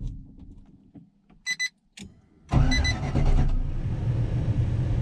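A short dashboard warning chime, a click, then the swapped-in LS V8 of a 1995 Chevy pickup cranking over and running, starting suddenly about two and a half seconds in.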